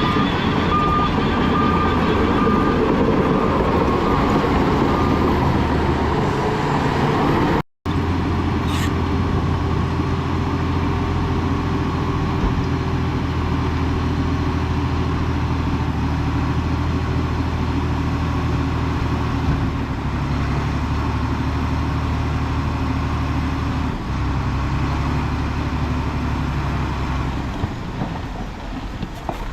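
Heavy diesel engine of earthmoving equipment running steadily at a low, even pitch, shifting in note a few times. A repeating high beep, like a backup alarm, sounds over it for the first few seconds, and the sound drops out abruptly for an instant just before the eight-second mark.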